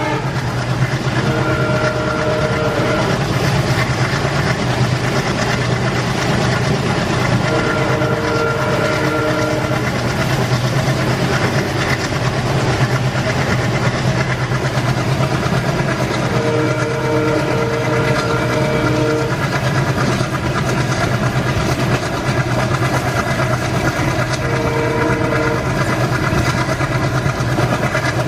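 Indian Railways train running with a loud, steady rumble, its horn sounding four times as a chord of several notes, the last blast shorter.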